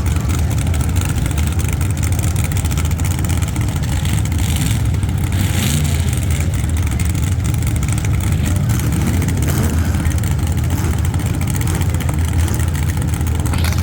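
Demolition derby car engines running and revving together as a steady low rumble, with a brief louder burst of noise about five seconds in.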